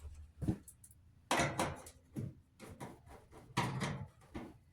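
Several separate knocks, clunks and scrapes of hand tools and screws against a clothes dryer's sheet-metal cabinet as the screws holding its back panel are taken out and set down.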